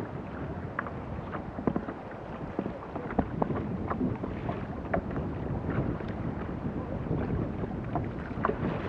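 Wind buffeting the microphone over water noise around a kayak, with small knocks and clicks coming at irregular moments.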